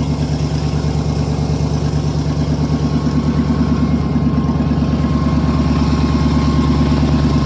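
GMC pickup truck's engine idling steadily with an even exhaust pulse, still warming up shortly after a cold start following two weeks sitting.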